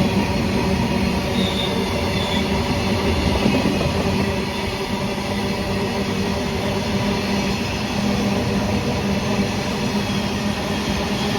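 Goods train rolling along the track: a steady, unbroken noise of wheels on rails.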